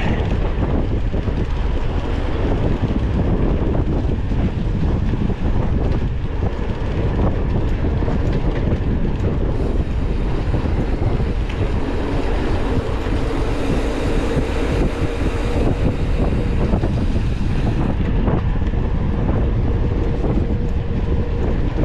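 Wind buffeting the microphone of an onboard camera on a moving mountain bike, a steady loud rush of wind noise mixed with the rumble of tyres and the bike over the trail.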